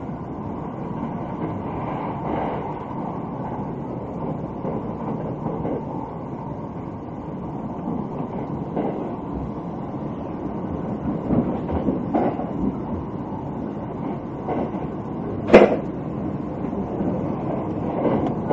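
Running noise of the Thunderbird limited express heard inside the passenger car: a steady rumble of wheels on rails at speed, broken by irregular knocks from the track, with one sharp, loud knock near the end.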